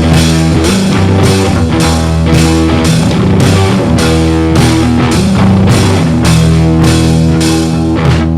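Instrumental rock music: distorted guitar chords held over a steady drum beat with a crash-like stroke about twice a second.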